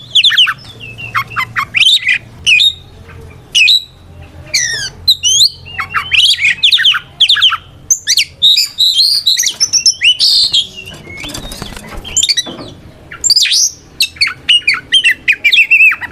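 Oriental magpie-robin (kacer) singing loudly in full challenge song: a rapid, varied run of clear whistled notes, fast up- and down-sweeping slurs and chattering phrases, with a short lull about two-thirds of the way through. This is the male's territorial song calling out a rival.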